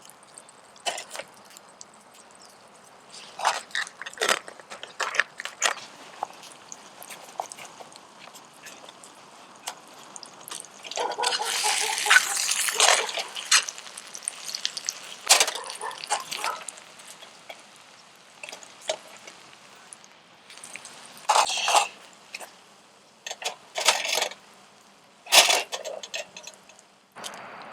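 Campfire cooking sounds: scattered sharp clicks and crackles, with a few seconds of denser hissing near the middle.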